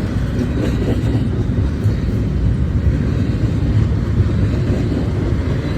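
Train passing close by: a loud, steady rumble of wheels rolling on the rails.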